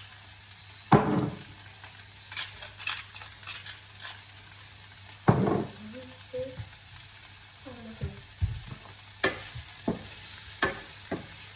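Onions frying in oil in a pan, sizzling steadily, while a utensil stirs them and knocks against the pan several times, loudest about a second in and again about five seconds in.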